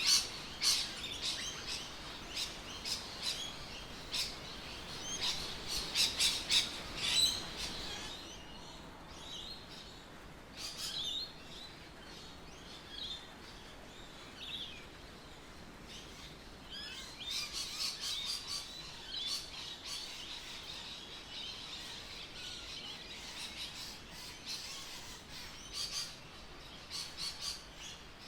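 Birds chirping in clusters of quick, short, high notes: busy for the first several seconds, sparse for a while, then busier again in the second half.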